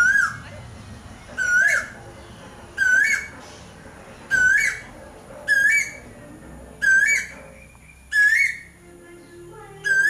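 A bird repeating the same short whistled call over and over, about every second and a half; each call is a quick rise and fall in pitch.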